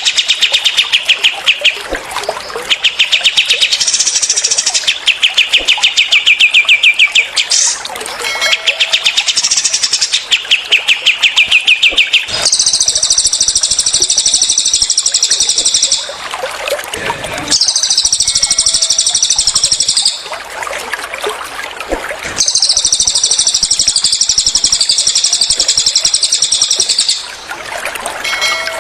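Recorded songs of cililin and kapas tembak birds, over a faint trickling-water background. The first half has bouts of fast, evenly repeated trilling notes. The second half has long, dense, high, buzzy song phrases with short pauses between them.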